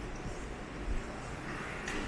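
Subway station ambience: a steady low rumble under a general background hum, with no distinct event.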